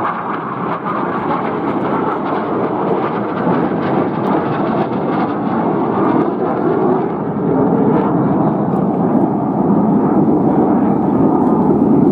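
Aircraft engine noise of an airshow flypast, a steady heavy rumble that grows slowly louder toward the end.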